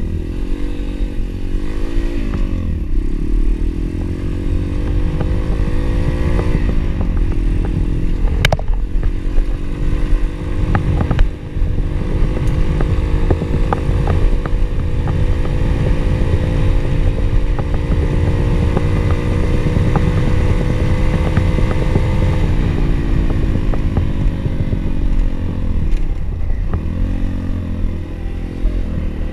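Pit bike engine running under way, its pitch dropping and climbing again a few times with throttle and gear changes, then holding nearly steady for a long stretch before easing off and picking up again, over a heavy low rumble. A sharp click sounds about eight seconds in.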